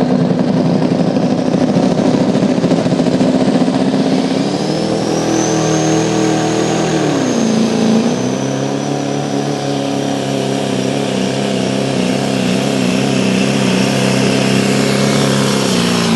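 A 2005 Ford pickup's engine running hard under full load as it pulls the sled. A high whine rises about five seconds in and then holds. The engine pitch dips briefly a couple of seconds later, holds steady, and falls away at the very end as the pull finishes.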